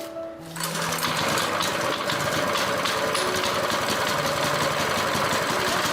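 Small gasoline engine of a restored air compressor starting up about half a second in and then running steadily at a fast, even beat.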